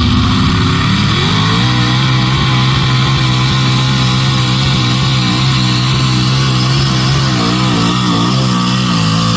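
Tractor engine at a tractor pull rising to full revs about a second in and holding there under load while pulling the sled, its pitch wavering toward the end as the load drags the engine down.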